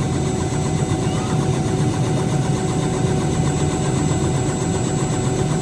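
Helicopter engine and rotor running steadily: a continuous mechanical drone with a steady high whine over it.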